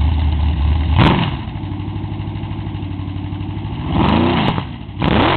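Freshly built Chevy big-block V8 with a solid roller cam and a Holley four-barrel carburettor, idling and sharply blipped three times, the revs rising and falling quickly each time.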